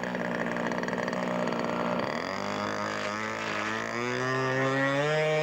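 Radio-controlled scale De Havilland Beaver seaplane's Super Tiger 90 two-stroke glow engine running steadily. About two seconds in it dips, then revs up in steps to a higher, steady pitch.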